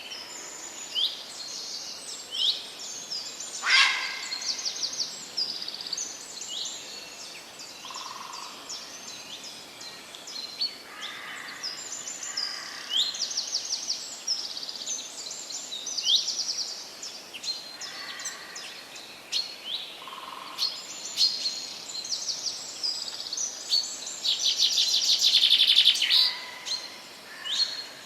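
Several birds singing in a forest chorus: many short chirps and fast trills, with a few lower calls, over a faint steady background hiss. One trill grows loud near the end.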